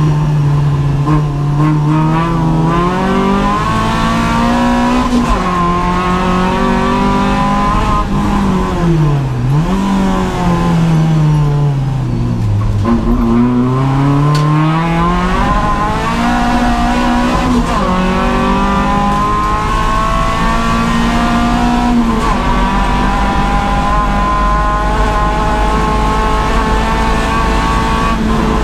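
Renault Clio 172's 2.0-litre four-cylinder engine under hard track driving, heard from inside the stripped cabin: revs climb and drop sharply at each upshift. Twice in the middle the engine note falls away and climbs again, then holds a higher, steady note for the last third.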